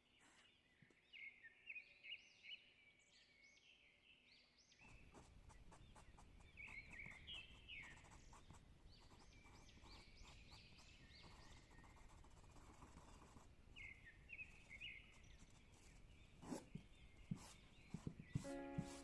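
Faint birdsong: several runs of quick, repeated chirps over a steady outdoor background hiss that comes in about five seconds in, with a few sharp knocks near the end.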